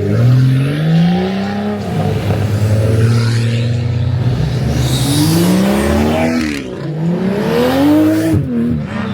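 Car engine revving: the pitch climbs over the first second and a half, holds steady for a couple of seconds, then rises and drops back twice more.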